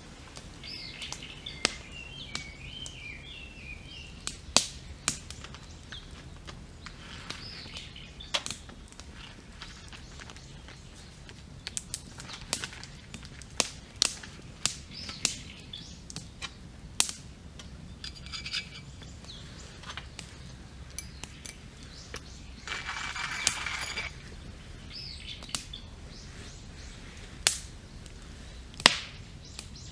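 Wood campfire crackling, with irregular sharp pops throughout. Wild birds chirp and warble now and then in the background.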